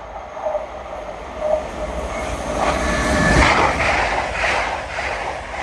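Grand Central Class 180 Adelante diesel multiple unit passing through the station at speed. Its rush of noise swells to a peak a little past halfway, with a rhythmic clatter of wheels about twice a second as the coaches go by, then fades away.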